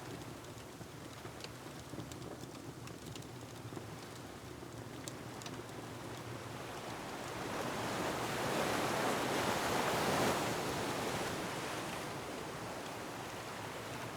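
Ocean surf on a rocky shore: a steady wash of waves, one wave swelling to its loudest about two-thirds of the way through and then falling back. A few faint crackles from a wood fire come in the first half.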